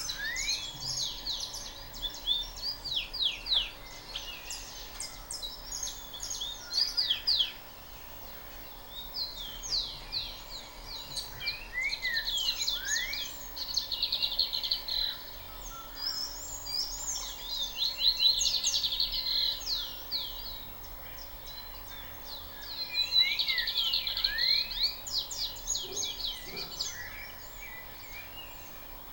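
Several small birds chirping and twittering, with many quick sliding notes and fast trills coming in bursts every few seconds.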